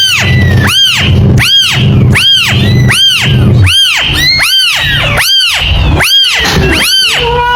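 Kitten mewing over and over: a high mew that rises and falls in pitch, repeated evenly about every three-quarters of a second, with a steady low rumble underneath.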